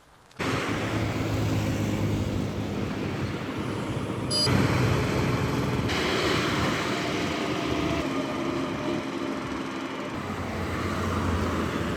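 Highway traffic noise: vehicle engines running with road noise. It starts abruptly about half a second in and changes abruptly at about four and a half seconds, as at an edit cut.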